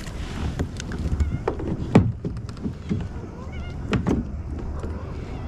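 Kayak handling noises: sharp knocks on the hull about two seconds and four seconds in, over a low steady rumble.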